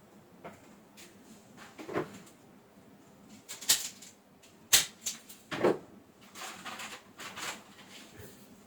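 Irregular clicks and knocks of things being handled, the sharpest few in the middle, with a softer rattle near the end.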